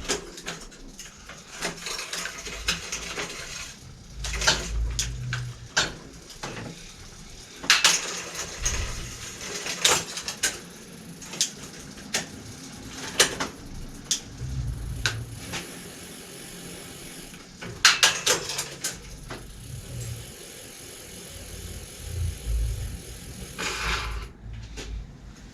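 Bicycle drivetrain clicking and rattling as the gears are shifted, with irregular sharp clicks and knocks. The shifting is not going smoothly.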